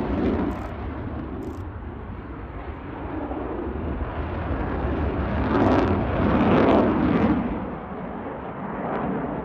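Jet noise from a Eurofighter Typhoon's twin EJ200 engines in a flying display, a steady rush that swells to its loudest about six to seven seconds in and then fades as the aircraft passes.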